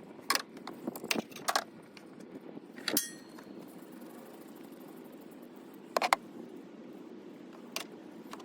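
Scattered metallic clinks and knocks of tools or parts being handled: a few light ones early, a louder strike about three seconds in that rings briefly, and a quick double knock about six seconds in.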